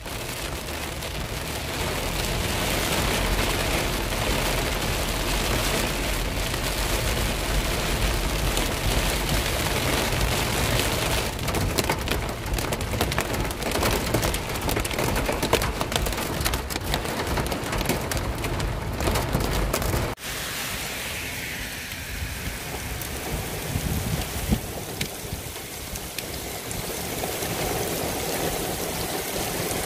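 Heavy rain pattering on a car's windshield and roof, a dense patter of drops over a low rumble. About twenty seconds in it cuts abruptly to quieter, steadier rain falling on a wet street.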